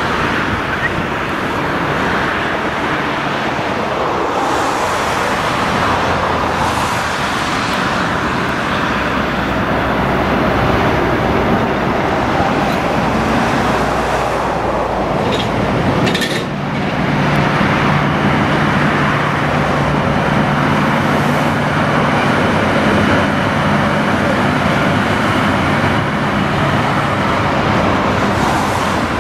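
Freight train passing, a continuous rumble of rolling wheels. A little past halfway the noise dips briefly, then a steady low engine hum comes in under it.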